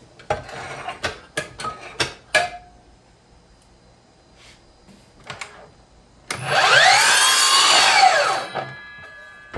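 A few sharp knocks of wood being handled, then a power saw cuts a short piece off a wooden strip for about two seconds, its pitch rising and then falling away as it winds down.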